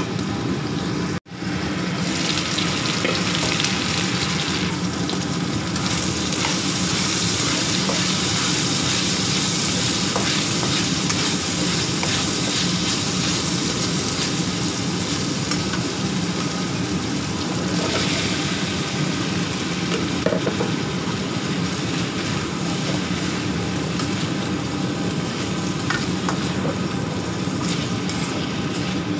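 Diced meat and carrots sizzling in hot oil in a wok while a spatula stirs and scrapes them. A steady low hum runs underneath, and the sound cuts out for an instant about a second in.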